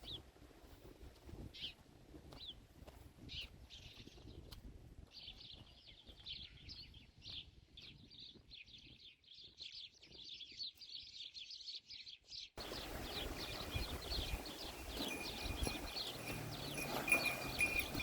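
Small birds chirping and twittering in quick, dense runs of short high notes. About twelve seconds in, the background cuts abruptly to a louder steady noise, with the chirping going on over it and a thin steady high note near the end.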